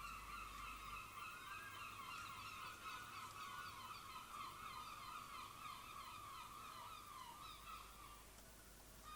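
Many gulls calling at once, their short, falling cries overlapping into a continuous chorus that thins out near the end.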